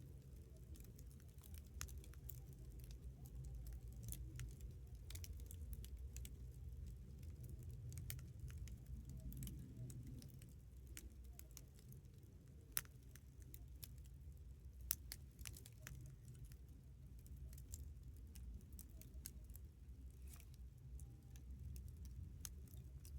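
Wood fire crackling: scattered small snaps and ticks over a low steady rumble, with two sharper pops about two seconds apart near the middle.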